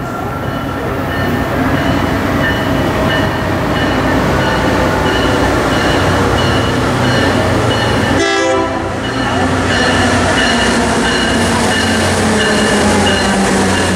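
Tri-Rail diesel commuter train approaching the station, its engine rumble growing as it nears, with a bell ringing about twice a second and the horn sounding.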